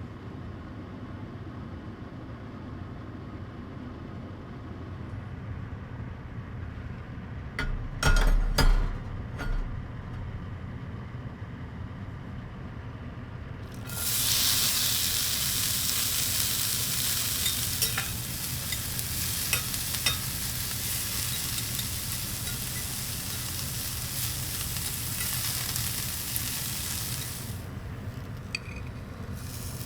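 Food begins sizzling hard on a small charcoal grill about halfway through: a sudden, loud, steady hiss with small pops, easing a little near the end. Before that there is only a low steady hum and a few knocks, as things are handled.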